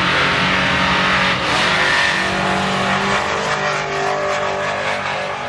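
Loud engine of a race truck at a drag strip running hard, gradually growing quieter toward the end.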